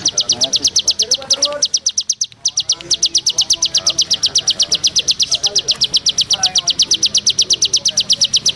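A cricket chirping in a fast, even trill of high-pitched pulses, about eight a second, with a short break about two seconds in. Faint voices talk underneath.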